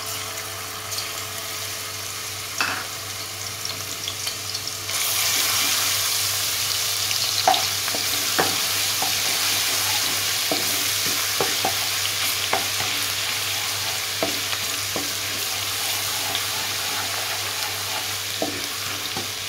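Garlic-ginger paste sizzling in hot oil in a karahi, stirred with a wooden spatula that knocks against the pan now and then. The sizzle gets louder about five seconds in.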